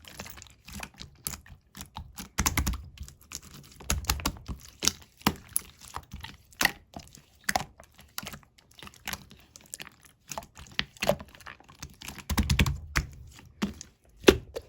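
Clear slime squished and pressed by hand, giving fast irregular sticky clicks and pops, with a few heavier squelching thuds.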